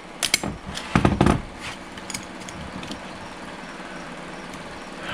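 Metal transmission parts clinking and knocking together as they are handled on the bench, with a heavier knock about a second in, then steady shop background noise.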